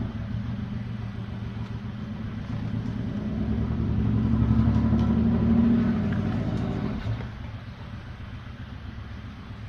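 A low rumble that swells about halfway through and then eases off.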